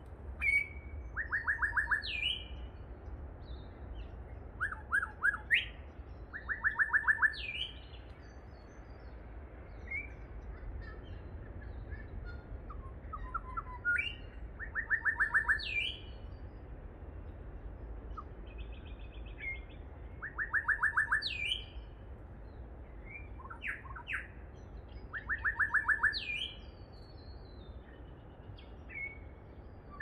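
Bird song repeated again and again every few seconds: each phrase is a quick run of even notes mixed with sharp whistled notes that sweep up and down.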